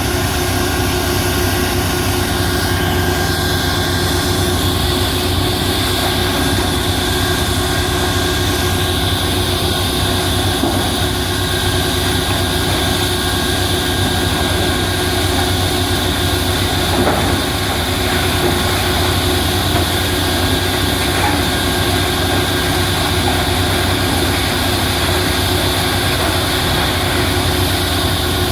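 Heavy machinery engine running steadily at an even pitch.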